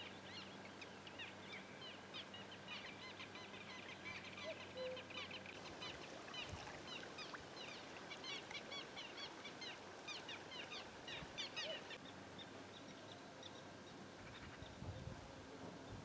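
Birds calling outdoors, many short high chirps overlapping, that thin out after about twelve seconds, over a faint steady hum.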